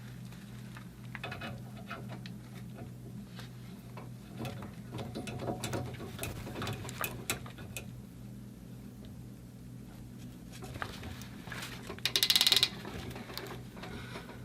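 Ratcheting crimp tool clicking as it closes a copper crimp ring over PEX tubing onto a fitting. There are faint clicks and handling noises at first, then a quick loud run of ratchet clicks about twelve seconds in, over a low steady hum.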